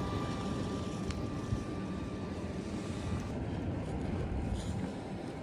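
Steady low rumble of a running engine, with wind noise on the microphone.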